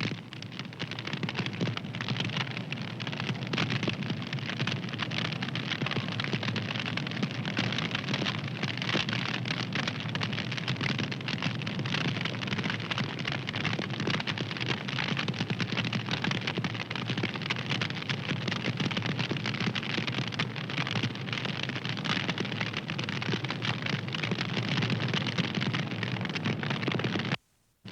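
Wood fire crackling steadily: a dense stream of small pops and snaps over a soft hiss. The sound cuts out briefly near the end.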